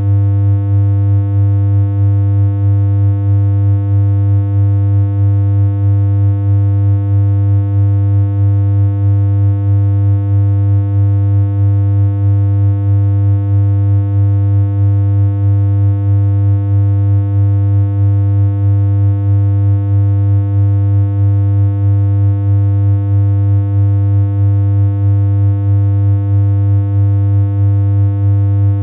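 Synthesized electronic hum: one low, buzzy tone with a stack of overtones, held at a steady pitch and loudness without a break.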